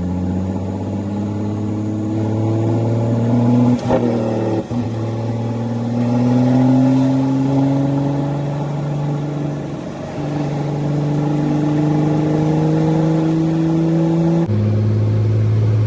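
Straight-piped Caterpillar C13 diesel in a Kenworth W900B dump truck pulling under load. The engine note climbs slowly and then drops at gear shifts about 4, 5 and 10 seconds in, and changes abruptly near the end.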